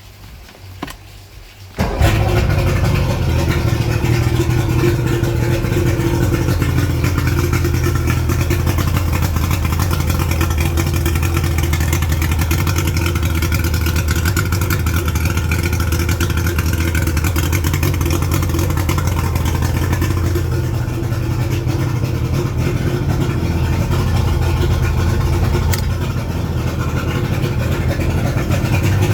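1989 Mariner 90 hp inline three-cylinder oil-injected two-stroke outboard engine. It starts up about two seconds in and then runs steadily at idle, on a freshly rebuilt fuel pump and new inline fuel filter.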